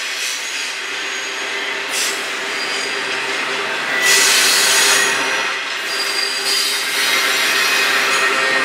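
Loaded double-stack intermodal well cars of a freight train rolling past close by: a steady rush of wheel and rail noise, with thin high-pitched wheel squeals coming and going. It is loudest about four seconds in.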